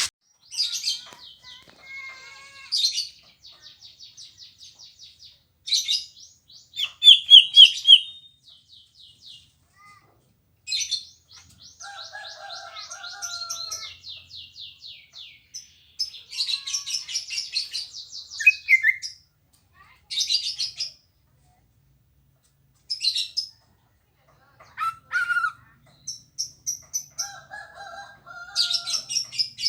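Cucak ijo (green leafbird) singing: a varied song of high trills, rapid runs of chirps and squeaky notes, in phrases broken by short pauses. It has a few lower warbled notes in the middle and near the end.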